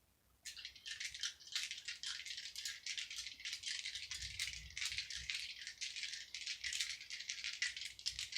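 A deck of tarot cards being shuffled: rapid, continuous clicking and rustling of cards, starting about half a second in.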